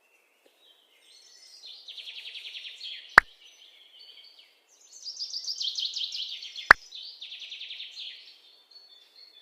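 A small songbird singing three fast, high trilled phrases, with two sharp clicks, one about three seconds in and one near the end of the second phrase.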